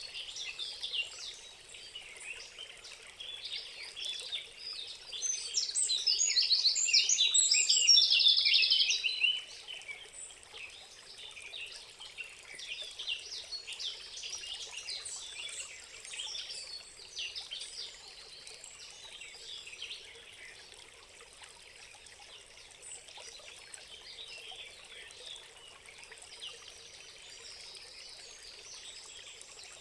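Several wild birds singing and calling over a steady trickle of running water. From about five seconds in, one nearer bird sings a loud, rapid trilling phrase for about four seconds, then quieter song carries on.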